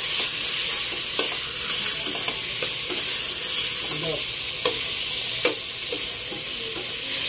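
Chicken pieces sautéing in hot oil with garlic, onion and ginger in a cooking pot: a steady sizzle, broken by the irregular knocks and scrapes of a utensil stirring them.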